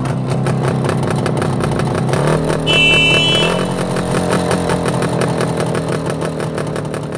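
Motor scooter engine sound running at a fast, even putter, its pitch stepping up twice, about two seconds and three and a half seconds in. A short high tone sounds about three seconds in.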